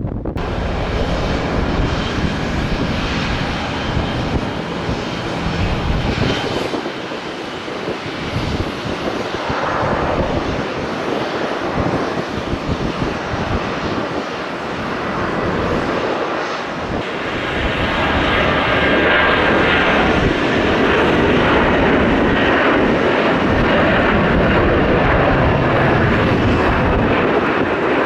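A jet airliner's engines running as it passes by, a steady rushing noise that swells and grows louder about two-thirds of the way through.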